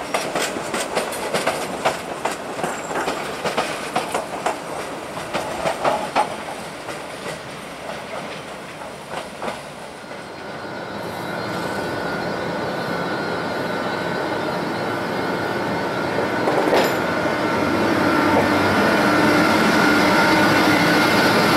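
A passing train's wheels clatter over rail joints in rapid clicks that fade away over the first half. Then a steady sound with a high whine grows louder toward the end as another train draws near, with a single sharp knock partway through.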